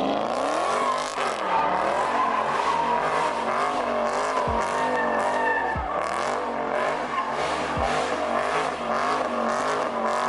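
A car drifting or doing donuts: its engine revs rise and fall over and over as the throttle is worked, while the rear tyres squeal and skid continuously.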